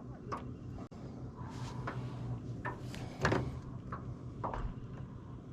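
Scattered light clicks and knocks, about six of them and the loudest about three seconds in, over a steady low hum.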